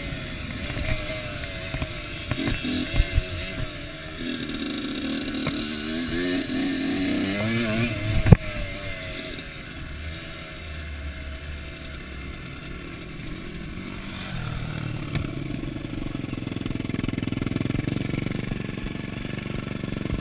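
Kawasaki KX85 two-stroke motocross bike engine revving up and down. A single sharp knock comes about eight seconds in, after which the engine runs lower and steadier.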